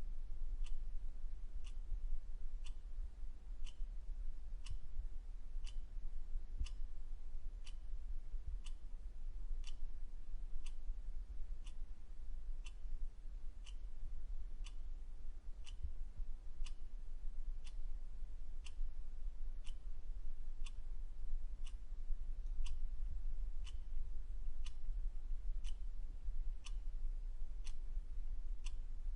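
Clock ticking steadily, about one tick a second, over a constant low hum.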